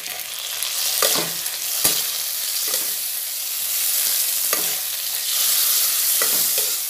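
Chopped tomato, green chilli and onion sizzling in hot oil in a kadai, with a metal spatula scraping and knocking against the pan about five times. The sizzle swells as the wet tomato is stirred through the oil.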